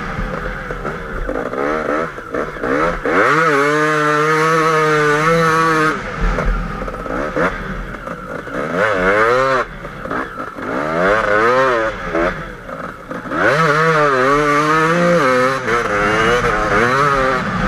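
KTM 250 EXC two-stroke enduro motorcycle engine, heard from the rider's onboard camera, revving hard through soft sand: the pitch climbs steeply several times, holds high, then drops away as the throttle is shut.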